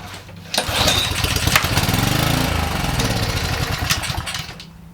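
Honda small engine on a Kärcher pressure washer firing on a dribble of hand-fed gasoline. It catches about half a second in, runs for about four seconds with its speed rising and then falling, and dies away: a short sputter-start that shows the engine will run when fed fuel.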